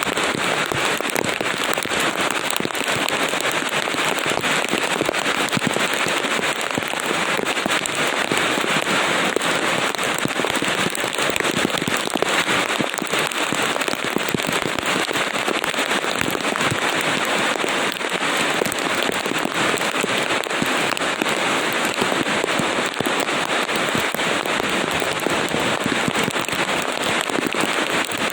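Steady heavy rain: a dense, even patter of many drops that does not let up.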